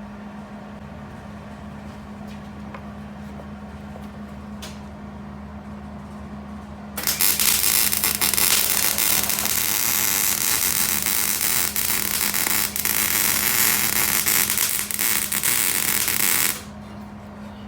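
A steady low hum, then about seven seconds in a Hobart Handler 190 MIG welder's arc strikes and crackles loudly and continuously while laying a bead on an exhaust flange, stopping suddenly after about nine and a half seconds.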